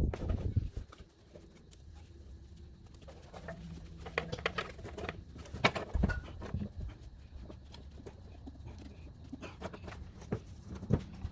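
Scattered clinks and knocks of a lifting chain and metal parts being handled, a few seconds apart. The loudest are right at the start and about six seconds in.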